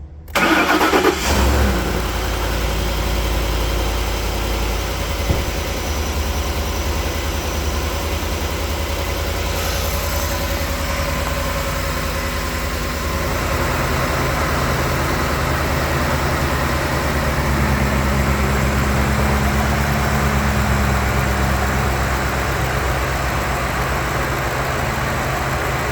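2012 Lincoln Navigator's 5.4-litre V8 cold-starting after sitting unused for a week: it cranks and catches almost at once, flares up briefly, then settles into a steady idle.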